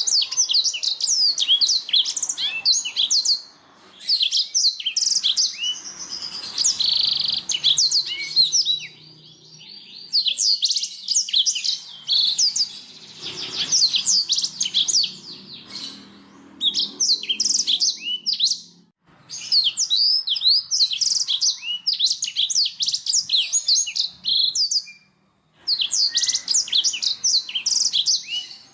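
Domestic canary singing: long runs of rapid, high trilled phrases of repeated quick notes, broken by brief pauses about 4, 19 and 25 seconds in.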